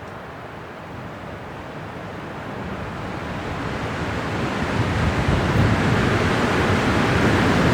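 Winter wind blowing, a gust swelling steadily louder into a deep rushing noise.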